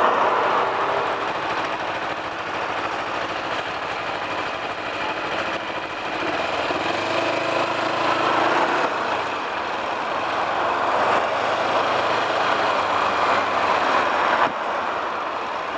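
Riding noise on a Kawasaki EL250 motorcycle: a steady rush of wind with the engine running underneath, dipping slightly in level near the end.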